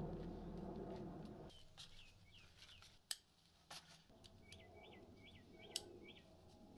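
A small bird chirping outdoors, giving a quick run of short rising-and-falling notes in the second half, with a couple of sharp clicks between them. Soft background music fades out about one and a half seconds in.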